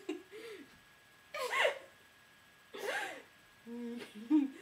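A girl's voice making two loud, breathy vocal bursts about a second and a half apart, with a brief murmur at the start and a few quiet voiced sounds near the end.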